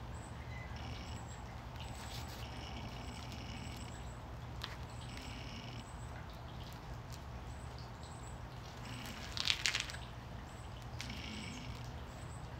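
Backyard ambience: birds chirping several times over a steady low hum, with a short, louder burst of noise about nine and a half seconds in.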